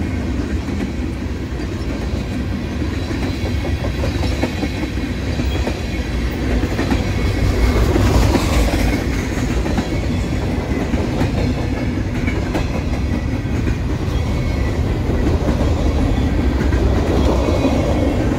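Freight cars of a Canadian National manifest train rolling past: a steady low rumble with the rapid clicking of steel wheels over the rail joints.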